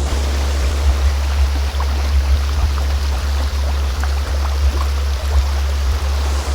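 A steady, deep, low-pitched tone from a sound-healing frequency track, held over the even rush of flowing stream water.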